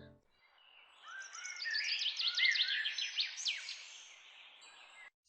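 Birds chirping: a quick run of short, high chirps sliding downward over faint hiss. It starts about a second in and fades out after about four seconds.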